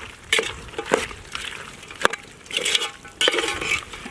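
Chicken being stirred in a cooking pot with a spoon: a few short scraping strokes, with a sharp knock about two seconds in.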